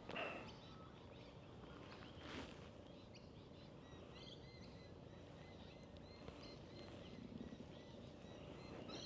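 Faint birds chirping: many short, repeated high chirps over a quiet background. A brief louder swish comes right at the start and a softer one about two and a half seconds in.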